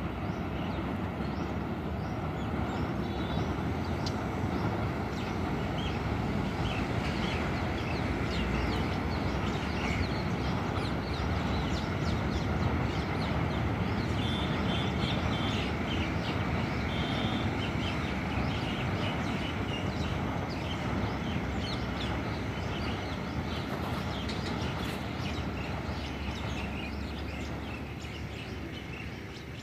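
Metre-gauge train running across a steel girder bridge, heard as a steady rumble that swells to its loudest about halfway through and fades away near the end.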